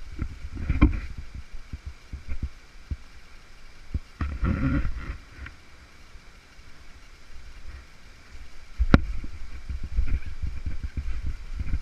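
Irregular low rumbling and thumps of a camera being carried and knocked about, with one sharp click near the end, over a faint steady rush of stream water.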